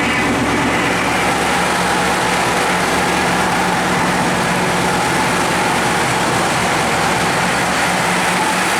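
Supercharged 6.0-litre Chevy LS V8 in an AMC AMX idling steadily through Dynomax mufflers on its first run after the engine swap.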